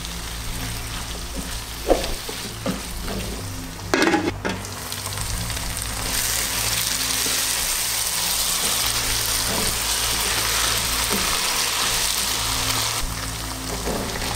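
Diced bell peppers and spices sizzling in hot oil in a pot as they are stirred with a spatula, with a few short knocks of the spatula against the pot about two and four seconds in. The sizzling grows louder from about six seconds in until near the end.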